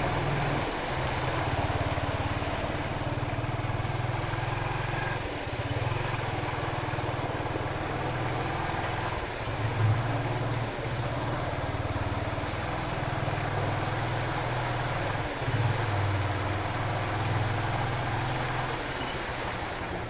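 Motorcycle engine running steadily at low speed, a continuous low hum, under an even rushing noise.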